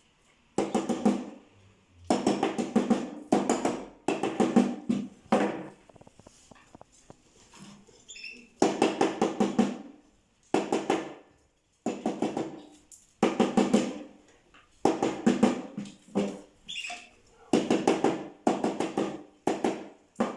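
Cage wire being straightened by hand: repeated short bursts of rapid tapping and rattling, each half a second to a second long, with brief pauses between.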